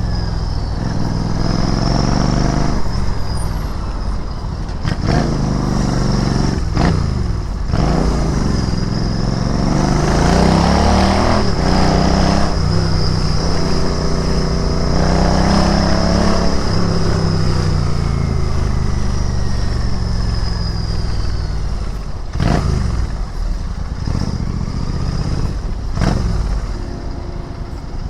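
Royal Enfield Interceptor 650's 648 cc parallel-twin engine and exhaust while riding: the pitch climbs in several short pulls as it accelerates through the gears, peaks about ten seconds in, then slides down over several seconds as the bike slows, and picks up again near the end.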